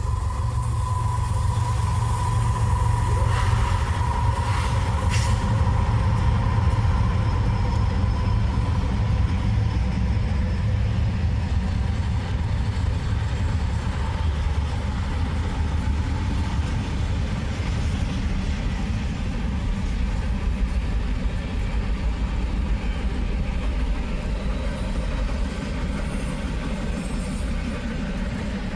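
Freight train passing with a steady low rumble of locomotives and rolling cars, and a thin high tone over the first few seconds that fades out.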